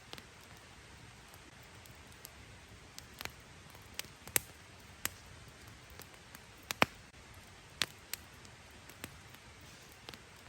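Campfire crackling: irregular sharp pops, a dozen or so at uneven intervals, over a faint steady hiss.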